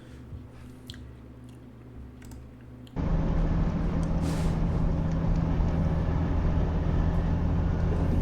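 A few faint clicks over quiet room tone, then about three seconds in a loud, steady, low engine drone with road noise cuts in: a semi truck running at speed, heard through dash-camera audio.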